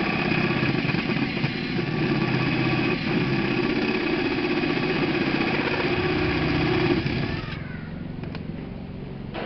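An electric motor running steadily with a whirring hum, then switched off about seven and a half seconds in and spinning down with a falling whine.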